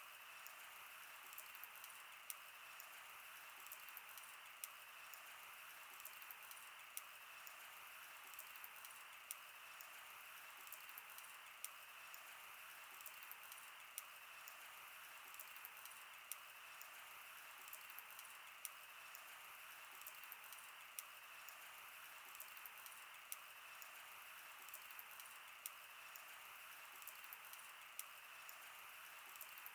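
Wood fire crackling: irregular sharp pops and snaps, one or two a second, over a faint steady hiss.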